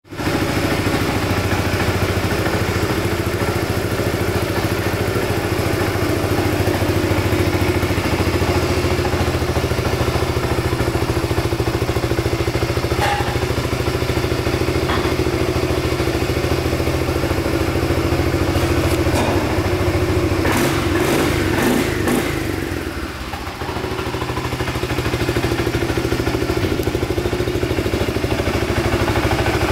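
Suzuki Burgman 400 scooter's single-cylinder four-stroke engine idling steadily. A few sharp knocks come a little after twenty seconds in, and the engine sound dips briefly soon after before settling back.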